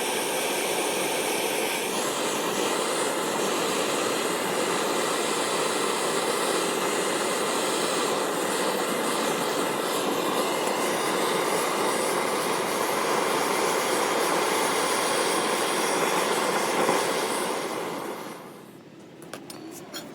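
Steady whirring noise of a shop machine running, which winds down and stops near the end, followed by a few light metallic clinks.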